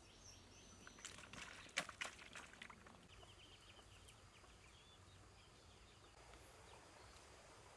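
Faint outdoor quiet with a few sharp clicks in the first couple of seconds, the loudest about two seconds in, then a quick run of short, high bird chirps.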